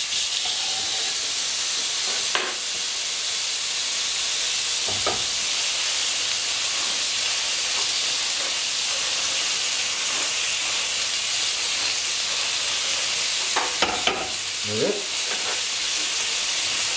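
Hamburger patties sizzling on a ridged grill pan over a gas flame: a steady, high frying hiss. A few sharp clicks of a fork and pans break in, with a short cluster of clatter and a scrape near the end.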